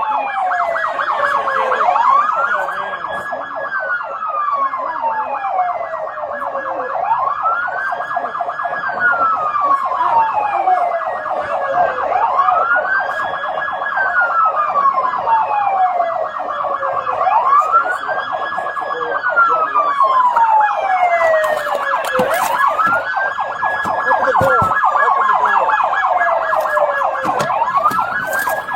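Police siren wailing: the pitch rises quickly, holds briefly, then falls slowly, repeating about every five seconds. It is layered over a second, steady, fast-pulsing siren tone.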